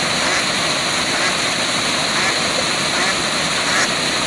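Waterfall rushing steadily, with a few faint short calls showing through the water noise.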